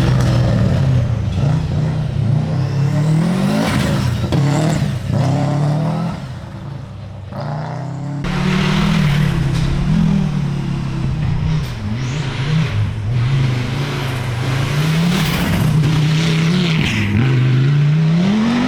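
Rally car engines at full throttle, the pitch climbing and dropping again and again as the driver works through the gears and lifts between bursts. The engine note eases off about six seconds in, then a car comes in loud again at full revs about two seconds later.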